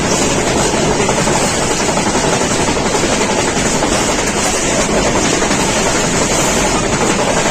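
Steady, loud running noise of a moving vehicle, with wind.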